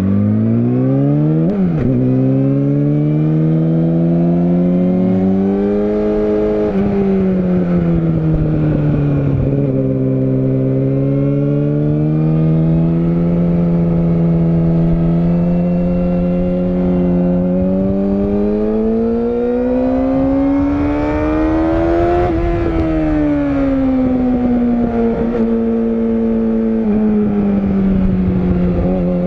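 Yamaha YZF-R6 (RJ27) 600 cc inline-four sport-bike engine being ridden hard: the revs climb steeply and drop at an upshift within the first two seconds, drop again at another shift about seven seconds in, then rise steadily to a peak about two-thirds through, fall off as the throttle is closed, and pick up again near the end.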